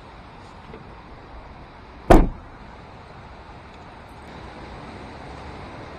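A vehicle door slams shut once, about two seconds in, over a steady background hiss.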